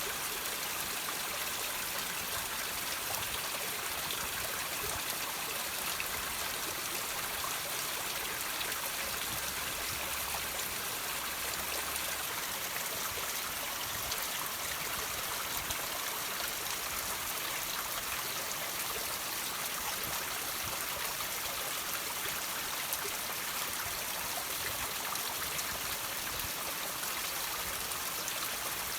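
Water trickling and dripping over rocks, a steady patter of many small drips and splashes.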